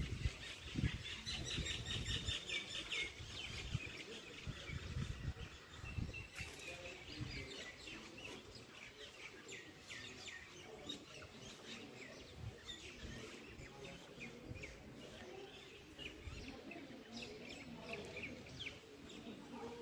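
Small birds chirping and twittering with many short, quick calls throughout, over low rumbles during the first several seconds.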